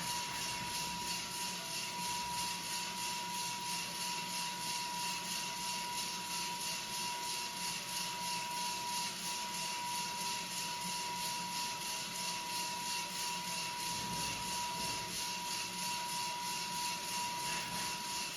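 Coffee roaster running with a homemade exhaust device drawing off the hot air: a steady rushing hiss with a single steady whistling tone held throughout.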